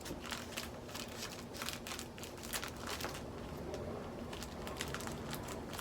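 Plastic packaging of plaster cloth sheets crinkling as it is cut open and handled: a quick run of crackles over the first three seconds or so, fainter after that.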